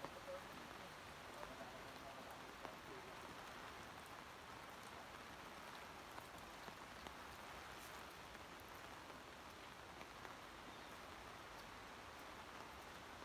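Heavy rain falling steadily, a faint even hiss with scattered light ticks of drops.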